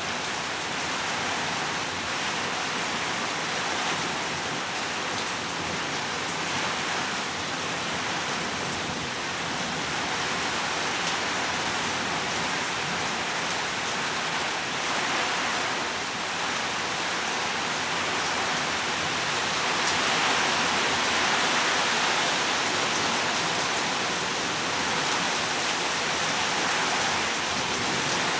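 Heavy rain pouring down steadily, swelling a little about two-thirds of the way through.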